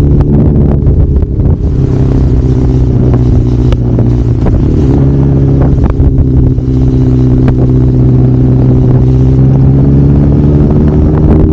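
Kawasaki Zephyr 750's air-cooled inline-four engine running steadily under way, its pitch rising slightly over the last few seconds.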